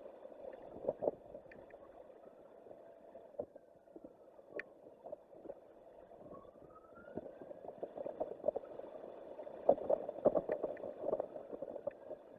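Strong wind buffeting an exposed microphone high on a tower, a rumbling, crackling rush that swells and gusts harder in the second half.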